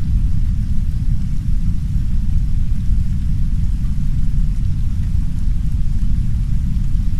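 Heavy brown noise: a deep, steady rumble with no breaks, and a faint hiss of soft rain on a window over it.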